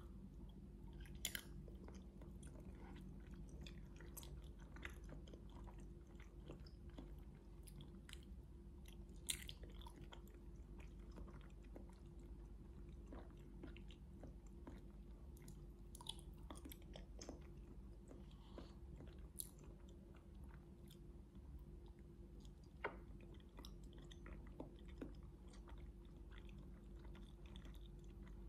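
Close-miked chewing and biting of grilled chicken satay: faint mouth sounds with scattered small clicks and crunches, over a steady low hum.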